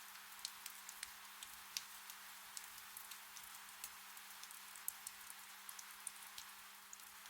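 Gentle rain in a forest: a soft, steady hiss with individual drops ticking irregularly and close, several a second, over a faint steady low hum.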